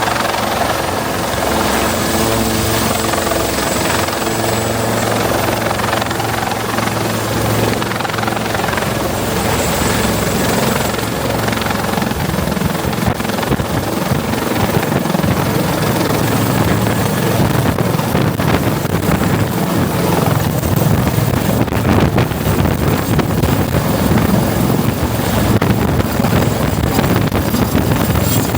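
Westland Lynx helicopter running with its twin Gem turboshafts and rotors turning. It gives a steady hum with held tones, which turns into a louder, rougher rotor beat about twelve seconds in.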